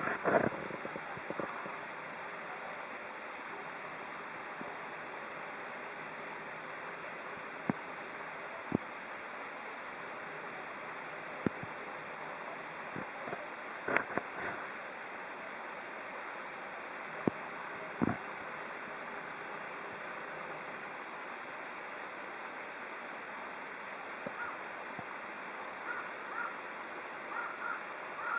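Steady rushing of running water, with a handful of sharp clicks scattered through the middle.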